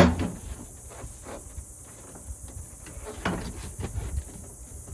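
A sharp knock at the start, then scattered small clicks and clunks, with another knock about three seconds in: hand work on the pickup door's lock cylinder and its parts.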